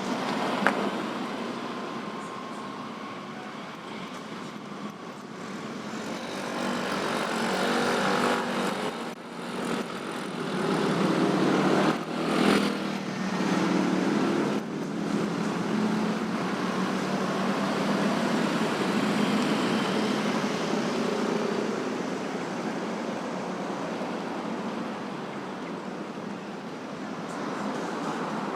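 Road traffic at a busy intersection: motorbikes, cars and trucks passing, their engines and tyres rising and falling as each goes by, busiest in the middle.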